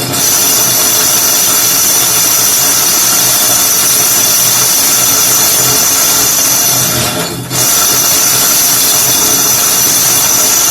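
Electric drill boring into a wall, running steadily with a high whine. It stops for a moment about seven seconds in, then starts again.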